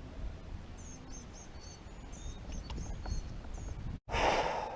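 Small birds chirping, short high notes repeated several times over faint outdoor background noise. About four seconds in, the sound cuts off abruptly and a louder rushing hiss takes over.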